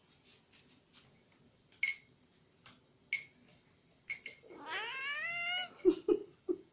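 Domestic cat meowing once, a long rising-then-falling meow a little past halfway, begging to be given food from the fridge. A few short sharp clicks come before it, and a few short low sounds after.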